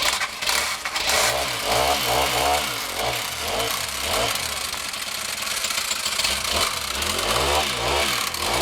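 Small gas string trimmer engine running, revving up and falling back several times.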